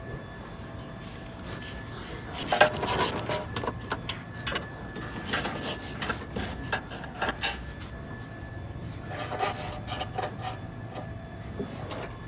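Irregular rubbing and scraping with scattered clicks and knocks, like parts or tools being handled, busiest about two to three seconds in and again near ten seconds, over a steady low hum.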